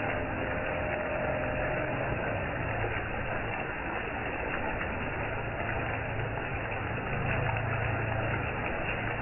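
Steady rain noise with scattered faint drop ticks over the low hum of an idling engine, which swells briefly about seven seconds in.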